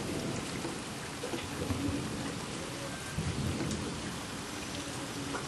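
Steady rain, with a low, uneven rumble underneath.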